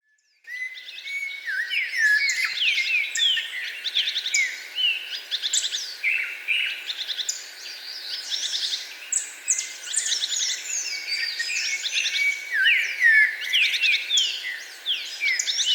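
Several songbirds singing and chirping at once: a dense stream of quick whistled calls and trills that starts about half a second in.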